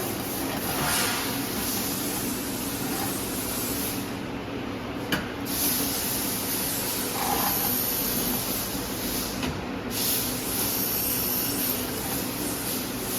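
Laser welding machine at work on stainless steel: a steady hiss over a low, even hum. The hiss cuts out twice, for about a second after the 4-second mark and briefly near 10 seconds, with a single click about 5 seconds in.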